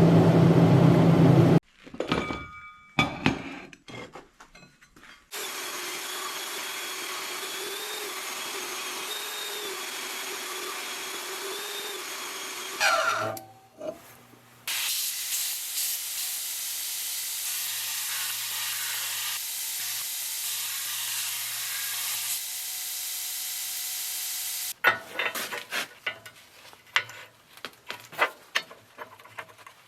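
MIG welding passes on a steel breaker mount: long stretches of steady crackling hiss, with clanks of metal being handled between them.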